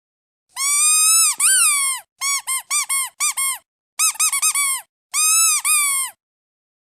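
Squeaky duck toy being squeezed in a rhythm: a long squeak, four short squeaks, a quick flurry of squeaks, then another long squeak, each squeak bending up and down in pitch.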